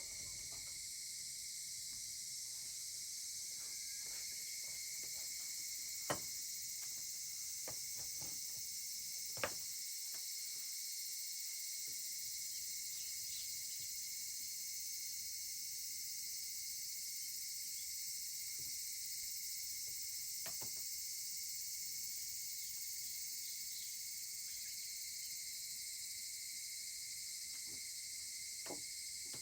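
Steady high-pitched chorus of insects, with a few sharp pops and crackles from a wood fire, the two loudest about six and nine seconds in.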